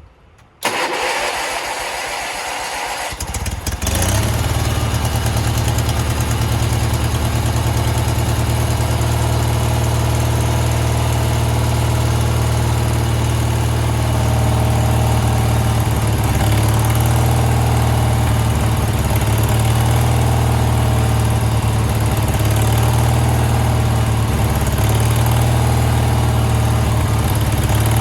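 Sears garden tractor engine being cranked and catching about three to four seconds in, then running steadily at a low idle through its homemade welded exhaust.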